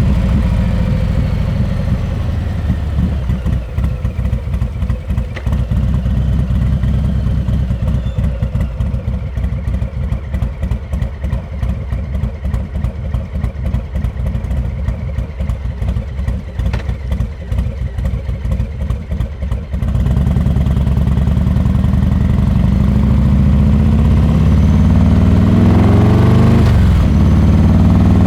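Harley-Davidson Milwaukee-Eight 114 V-twin through a Rinehart exhaust: the revs fall back to a low, uneven, loping beat. About two-thirds of the way in the throttle opens and the revs climb.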